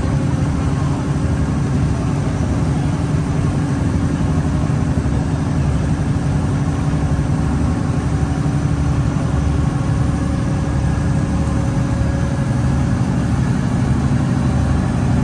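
Ferry boat's engine running steadily, a low drone with a constant pitch.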